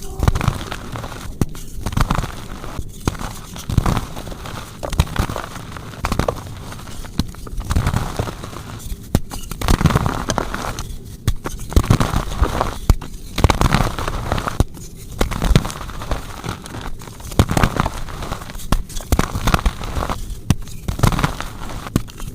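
Soft gym chalk blocks crunching and crumbling as they are crushed, a run of crackly squeezes with many small sharp snaps and brief pauses every few seconds.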